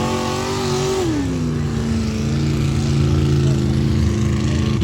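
Mud bog truck engine held at high revs, then easing off about a second in to a lower, steady pitch.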